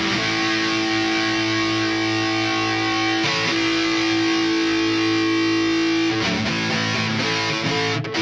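Electric guitar played through the Neural DSP Mesa Boogie Mark IIC+ amp-modeling plugin with an overdrive switched on, giving a distorted tone. Two long sustained notes are held about three seconds each, with shorter notes before and after.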